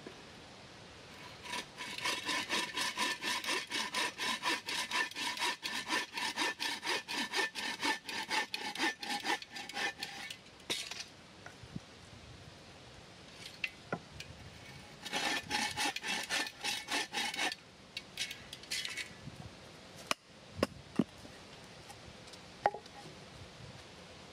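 Hand saw cutting through wood in quick back-and-forth strokes: a long spell of steady sawing, a pause, then a shorter spell, followed by a few single knocks.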